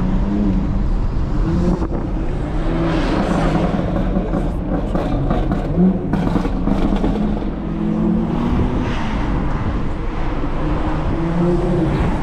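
A BMW X3 M's S58 twin-turbo straight-six with a loud exhaust, pulling through the revs several times, its pitch climbing and dropping again, with a run of sharp crackles about halfway through.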